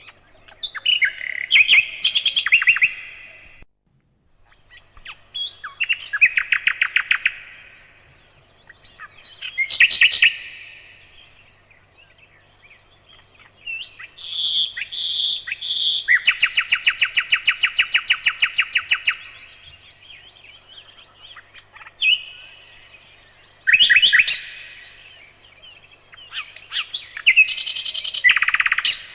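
Nightingale singing in separate phrases of fast repeated notes with short pauses between them. About halfway through, three clear whistled notes lead into a long, rapid, rattling trill lasting about three seconds.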